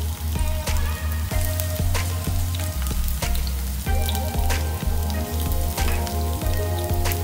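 Sliced onions and minced garlic sizzling in hot oil in a nonstick frying pan as a spatula stirs them, with frequent little crackles. Background music with a steady bass line plays underneath.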